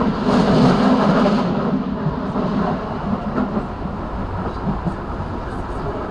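Passenger train running along the track, heard from inside the carriage: a steady rumble of wheels on rail with scattered small clicks. A louder rushing noise swells in the first second and a half.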